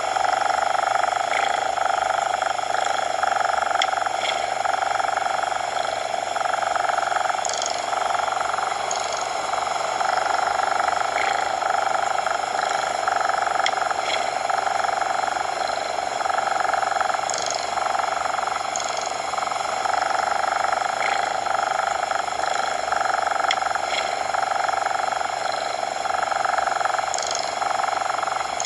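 Steady coloured noise, a continuous hiss centred in the midrange, with faint short ticks every few seconds.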